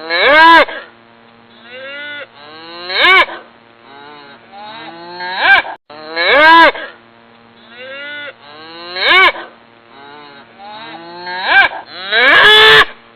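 Cattle mooing in a string of short calls that bend up and down in pitch, one every two to three seconds. The same run of calls starts over about six seconds in.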